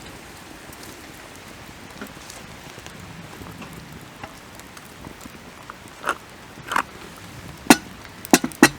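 Quiet forest ambience: a soft steady hiss with faint scattered ticks, then five sharp cracks or clicks close together in the last three seconds.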